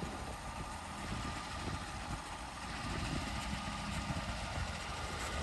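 An engine idling steadily, with a low rumble.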